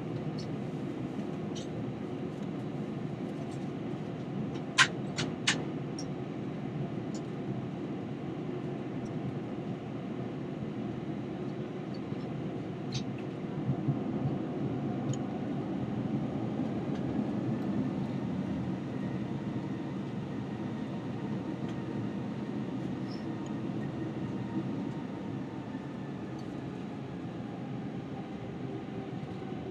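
Airbus A321 cabin noise while taxiing: a steady low rumble from the engines at low thrust and the rolling airframe, with three sharp clicks about five seconds in and a faint tone that swells and fades in the middle.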